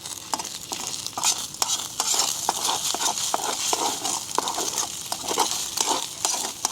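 Hot oil sizzling in a pan, with frequent sharp pops and crackles, as rice-paper-wrapped shrimp fry.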